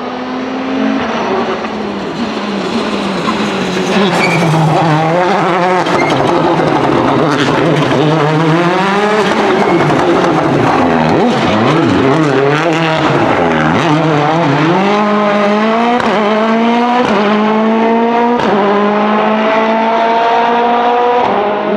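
Citroën DS3 WRC rally car's turbocharged 1.6-litre four-cylinder engine revving hard. Its pitch drops and climbs again as the car slows and pulls away, then rises through three quick upshifts near the end.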